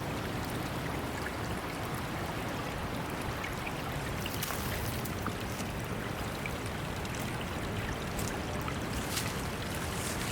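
Steady running water, with a few faint clicks scattered through it.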